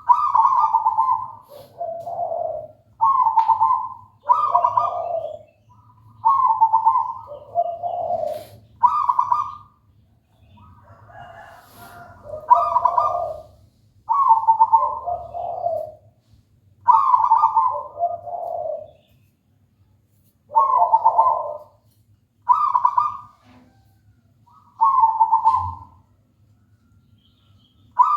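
Zebra dove (perkutut), a local wild-type bird, cooing in its repeated song: short mellow phrases, each a higher note falling to a lower one, coming every second or two with brief pauses between.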